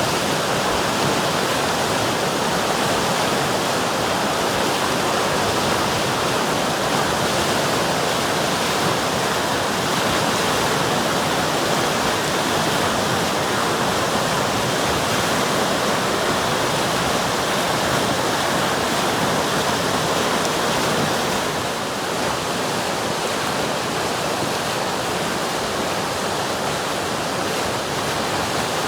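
River water rushing and splashing over rocks in a steady, dense rush, dipping slightly in level about two-thirds of the way through.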